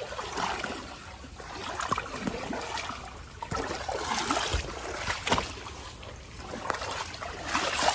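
Floodwater splashing and sloshing in irregular bursts, with a sharp knock about five seconds in.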